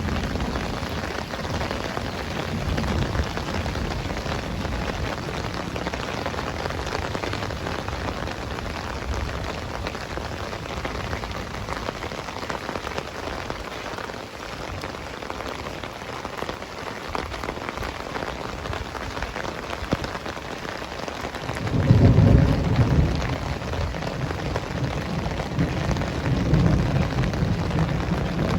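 Heavy rain falling steadily. A low roll of thunder fades out in the first couple of seconds, and another rumbles in about three-quarters of the way through and goes on to the end.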